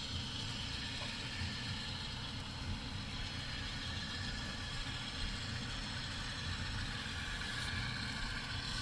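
Model diesel locomotives (a Rapido E8 and an Atlas Gold Series GP40) running, with a steady diesel engine rumble from their onboard sound decoders. A higher steady tone comes in about halfway through.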